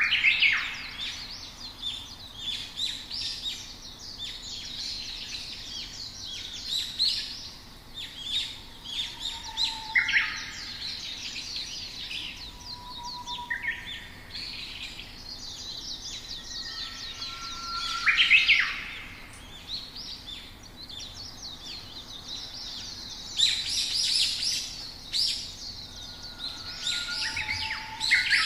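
Several songbirds chirping and singing at once, a dense overlapping chorus of quick high chirps with a few short clear whistles, louder bursts about two-thirds of the way in.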